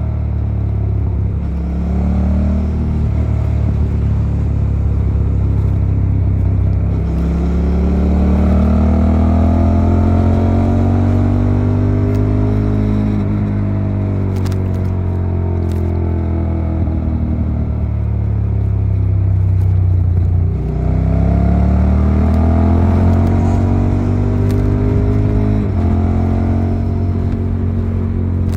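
Suzuki SV650's V-twin engine running under way. Its pitch climbs steadily for several seconds, then falls away. After a brief dip about two-thirds of the way through, it climbs again and drops suddenly near the end.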